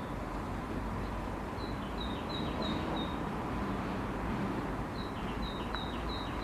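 A small bird calling in two quick runs of about five short, high, falling chirps, over a steady low background rumble.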